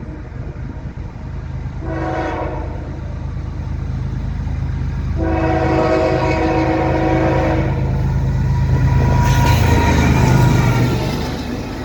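Diesel freight locomotive, a GE ES44AC, sounding its air horn: a short blast about two seconds in and a longer one from about five to eight seconds. Under the horn its engine drone grows louder and is loudest as the locomotive passes near the end.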